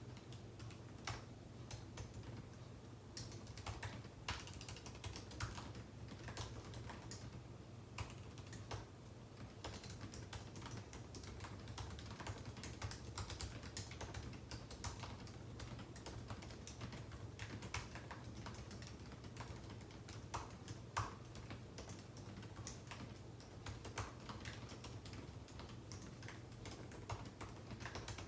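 Typing on a computer keyboard: an irregular run of keystroke clicks over a low steady hum.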